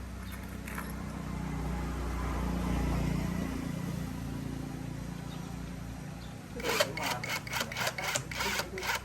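A low, steady rumble that swells and fades, then, about seven seconds in, quick rhythmic scraping strokes, about four a second, of a hand tool worked back and forth on a workpiece.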